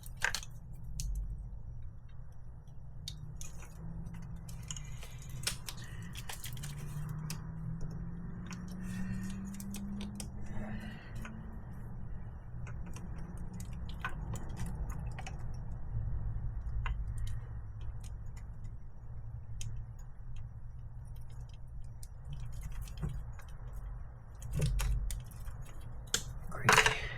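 Small clicks and light metallic rattles of wires, hand tools and a wiring connector being handled while splicing a wire, over a steady low hum. A low tone slowly rises about a third of the way in, and a sharper scrape comes near the end.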